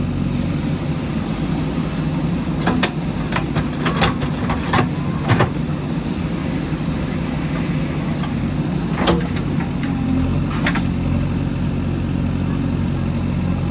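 JCB 3DX backhoe loader's diesel engine running steadily, with a string of sharp metallic knocks from its working gear, five close together a few seconds in and two more later.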